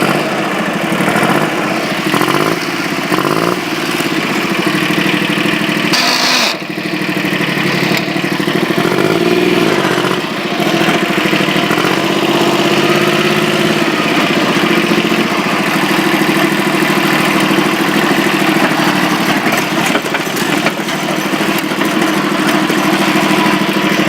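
Small tractor engine running steadily, its speed rising and falling a few times as the tractor is driven.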